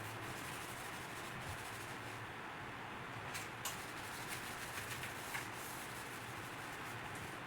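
Steady scrubbing of refrigerator parts with cream cleanser, a rubbing noise with a few light clicks and knocks.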